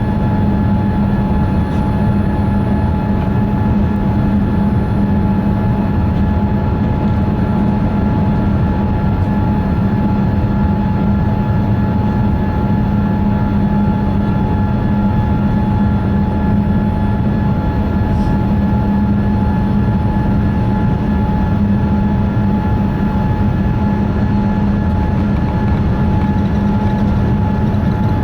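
Jet airliner cabin noise: engines and airflow running with a steady, unchanging hum and a constant tone above it.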